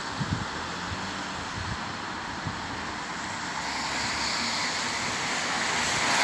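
A bus running at the stop amid steady road noise, the sound slowly growing louder over the last few seconds.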